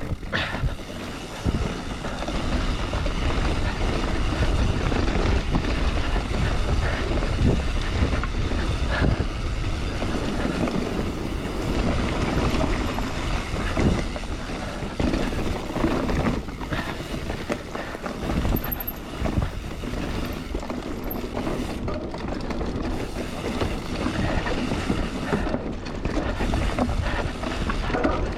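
Mountain bike riding over a rough trail: steady wind rush on the microphone over tyre rumble, with frequent knocks and rattles from the bike.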